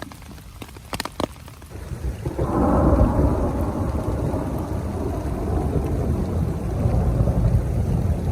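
A long roll of thunder that swells about two seconds in and keeps rumbling, over rain falling on a small tent, with single drops clicking before the thunder starts.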